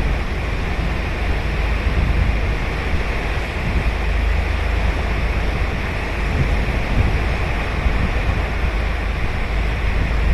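Ocean surf washing steadily onto a sandy beach, with wind buffeting the microphone as a low rumble.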